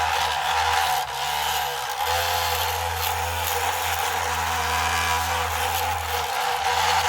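Radio-controlled construction-machine model running: small electric drive motors and gearing whining steadily over a low hum, with brief dips about a second in and again near the end.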